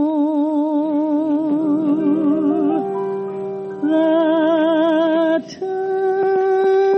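A woman's voice holding long sung notes with a wide vibrato over an orchestra, the closing bars of a torch song on a 1940s radio broadcast recording. The notes change twice, with a brief break about five and a half seconds in.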